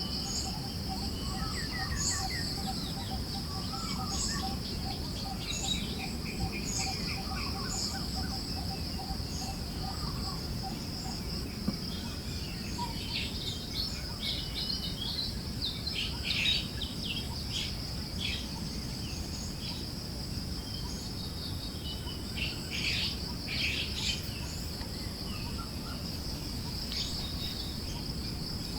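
Forest ambience: songbirds chirping in scattered short phrases, busiest around the middle and near the end, over a steady high insect trill and a low rush of wind.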